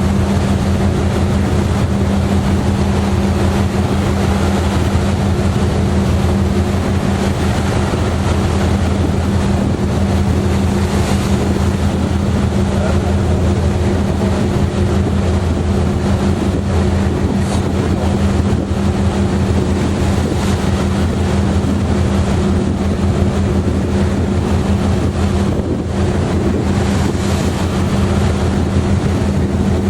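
Ferry's engine droning steadily with a constant low hum, mixed with wind buffeting the microphone and the wash of the sea along the hull.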